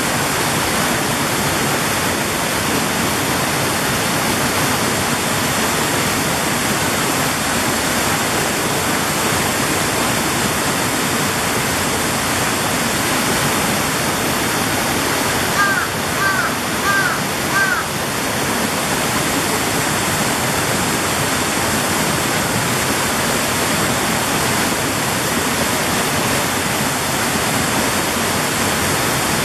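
Mountain valley stream rushing steadily over rocks. About halfway through, four short high chirps sound over it.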